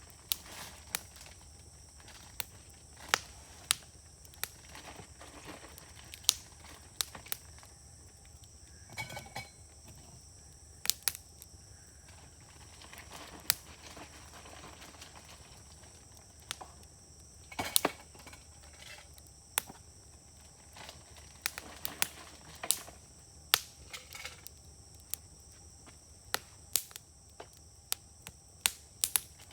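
Wood fire burning in a fire grill, crackling with many sharp pops and snaps at irregular intervals, some much louder than others.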